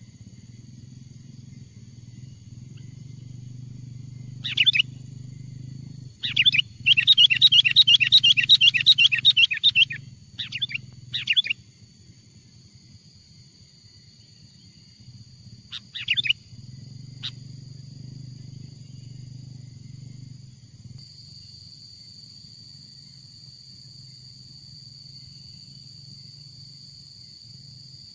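Sooty-headed bulbul calling: short sharp calls, then a rapid chattering run of notes for about three seconds, then a few more short calls. A steady high-pitched whine runs underneath, growing louder in the second half, over a low rumble.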